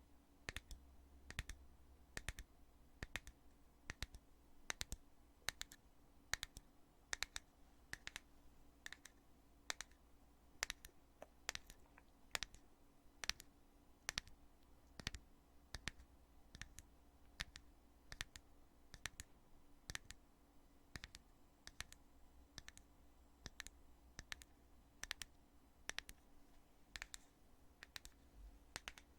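The heavy lid of a foundation container being opened and closed over and over, giving sharp, quiet clicks at a steady pace of about two a second.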